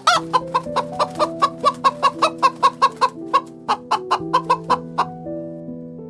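Chickens clucking in a rapid run of short calls, about four a second, that stops about five seconds in.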